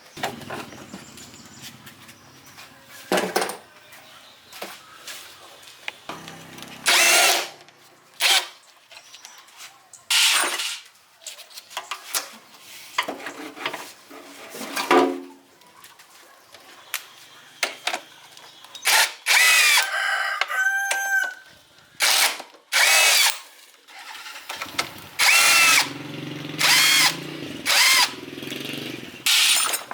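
Short, loud, repeated bursts of a power tool in a workshop, with a rooster crowing now and then.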